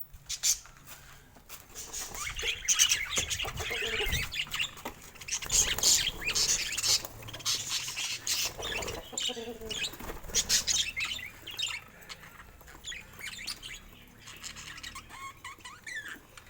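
Budgerigars chirping and chattering in irregular scratchy bursts, busiest through the middle and thinning out near the end.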